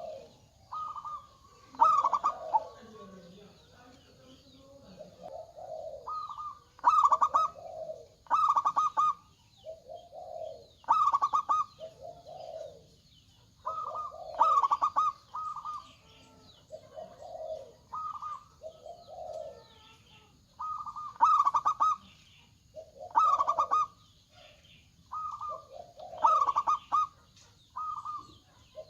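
Zebra doves (perkutut) cooing over and over. Each phrase is a quick run of clipped notes followed by lower rounded coos, and the phrases come every one to two seconds, as if more than one bird is answering another. Faint higher chirping sits underneath.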